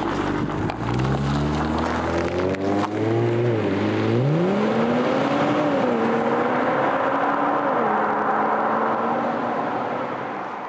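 Kia Stinger GT2's twin-turbo V6 pulling away and accelerating, its engine and exhaust note climbing and dropping back at each of about three upshifts before settling to a steadier pitch.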